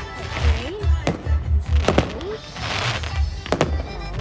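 Firework bangs over loud music with a steady bass beat: a few sharp reports about one, two and three and a half seconds in, and a spell of crackle just before the last ones.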